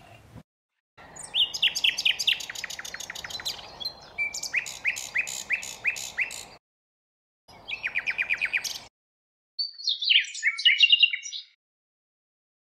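Common nightingale singing: three phrases of rapidly repeated notes and quick downward-slurred whistles, several a second, separated by short pauses.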